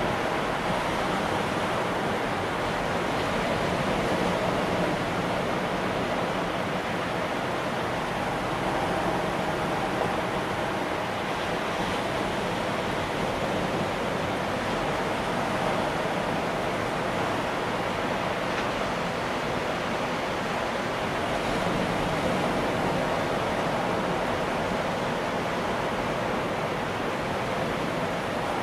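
Ocean surf breaking and washing in a steady rush, swelling and easing gently.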